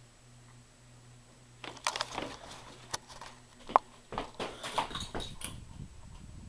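Low steady hum of a ceiling fan motor, broken by a run of irregular knocks, clicks and scrapes starting about two seconds in, with one sharp click a little after halfway; the hum drops out about two-thirds of the way through.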